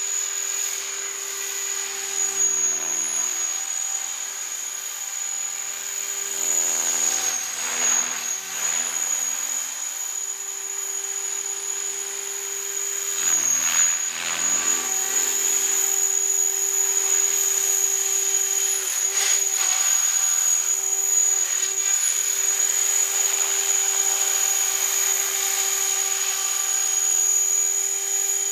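Remote-control helicopter's motor and rotor whining steadily, the pitch shifting and dipping a couple of times as it is flown, then running a little louder through the second half.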